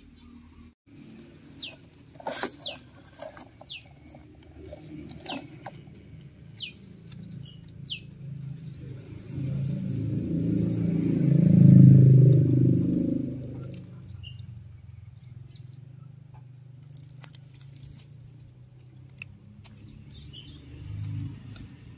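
A bird calling in short notes that slide downward, about six of them over the first eight seconds. Under them is a low rumble that swells to its loudest about twelve seconds in and fades away a couple of seconds later.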